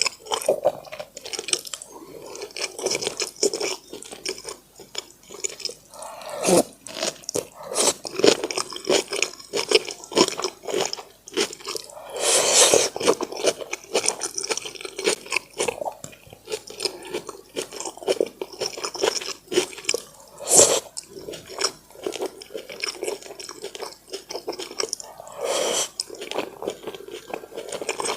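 Close-miked eating sounds: chewing and mouth smacks on braised pork in brown sauce, a dense run of wet clicks, with a few louder knocks along the way.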